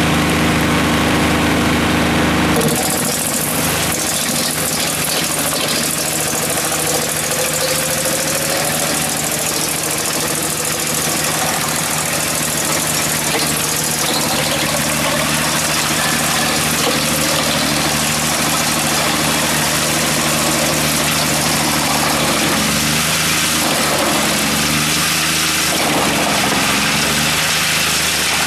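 Skorpion 280 SDBG drum wood chipper running on its three-cylinder diesel engine. Nearly three seconds in, the sound changes from a steady engine drone to a louder rushing noise over the engine, with a tone that rises slowly over the next several seconds.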